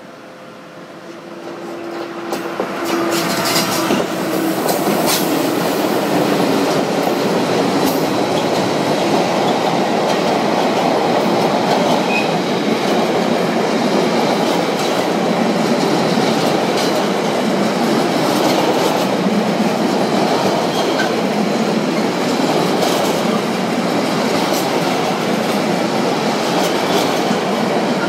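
Freight train passing close by: the electric locomotive approaches, growing louder over the first few seconds, then a long rake of empty flat wagons rolls past with a steady rumble and the clatter of wheels over rail joints.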